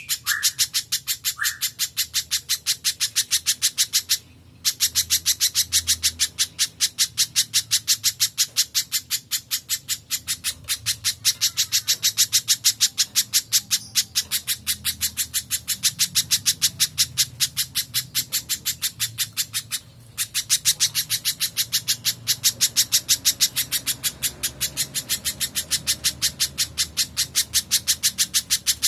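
Spiderhunter calling a long, rapid run of sharp, high single notes, several a second, pausing briefly about four seconds in and again about twenty seconds in.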